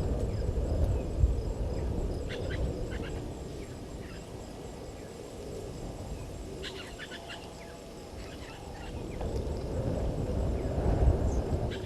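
Birds calling outdoors in quick clusters of short clicking notes, a couple of times, over a low rumble that swells near the start and again near the end.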